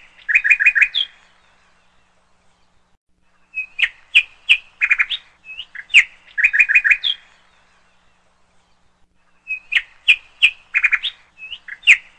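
Bird chirping in quick runs of high chirps with pauses of about two seconds between them. The same phrase repeats about every six seconds, like a looped recording.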